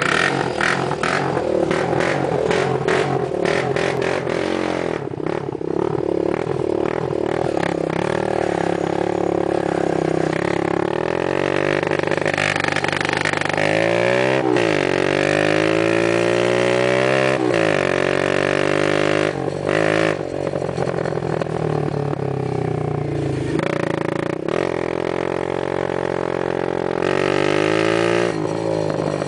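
Baja 110 minibike engine running under way, its pitch rising and falling as it speeds up and eases off, with two clear rev-ups and drops about halfway through.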